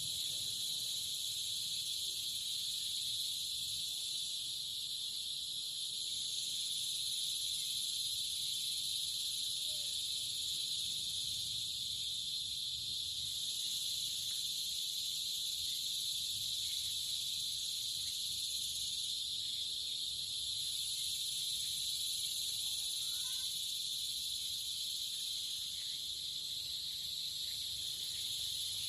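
A steady, unbroken chorus of insects, a dense high-pitched trill that holds at an even level throughout.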